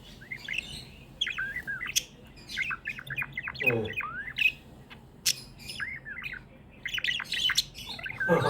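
Budgerigars chirping and chattering: quick runs of short chirps that slide up and down in pitch, with a few sharp clicks among them.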